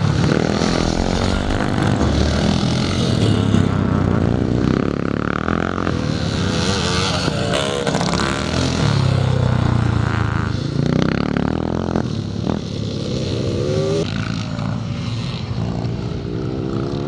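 Vintage motocross motorcycles racing on a dirt track, their engines revving up and down as they accelerate and shut off.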